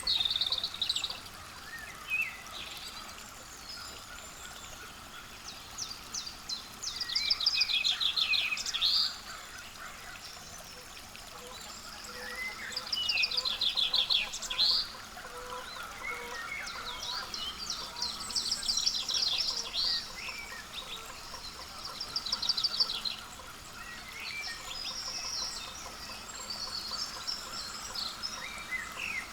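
Songbirds singing: a rapid trilled song about two seconds long repeats four times, with scattered short chirps in between, over steady outdoor background noise.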